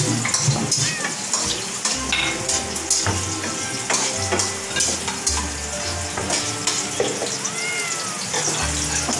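Food sizzling as it fries in a nonstick pan on a gas stove, with a wooden spatula stirring and scraping it around the pan. A brief high squeak rises and falls near the end.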